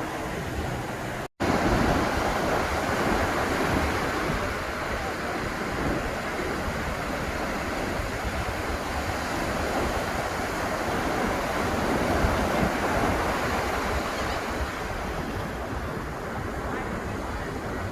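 Ocean surf washing onto a beach in a steady rush, with wind buffeting the microphone. The sound cuts out for an instant about a second in, then resumes.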